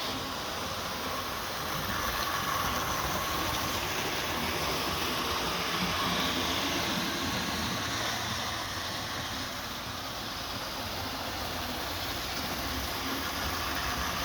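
Hornby 00 gauge model locomotives running around the track: a steady running noise of the motors and wheels on the rails.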